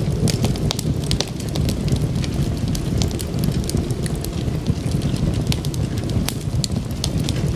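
Wood fire crackling: frequent, irregular sharp pops and snaps over a steady low rumble of burning flames.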